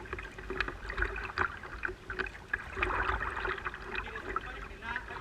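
Water splashing and lapping against a fishing kayak's hull, with many small knocks and clicks over an uneven hiss.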